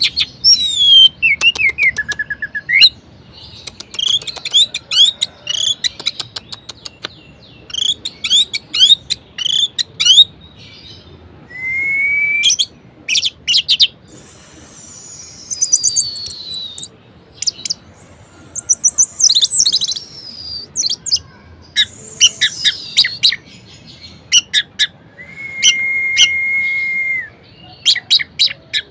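Orange-headed thrush in full varied song: quick runs of sharp chirps and trills, falling whistled glides, and one long level whistled note near the end.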